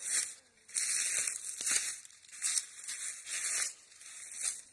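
Footsteps crunching through dry fallen leaves on the woodland floor at a walking pace, about six or seven steps.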